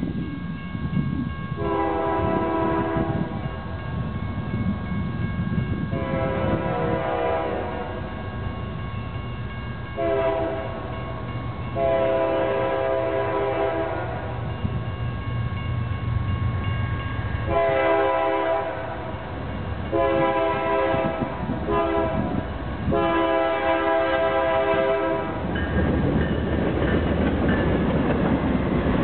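BNSF diesel locomotives on a light engine move sounding a multi-note air horn in the grade-crossing signal, long, long, short, long, given twice, over the rumble of the engines. The rumble and wheel noise grow louder near the end as the locomotives pass.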